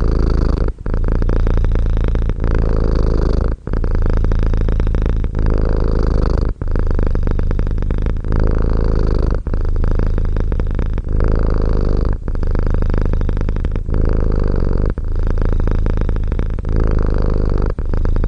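Domestic cat purring loudly and steadily, the purr broken by a short dip about every one and a half seconds.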